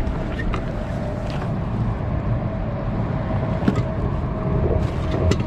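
Wind rumbling on the microphone and water against a kayak hull, with a few small clicks and knocks.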